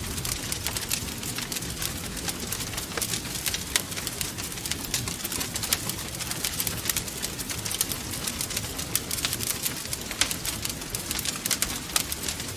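Wood fire crackling: a dense, irregular run of sharp pops and snaps over a steady low rumble of the burning logs.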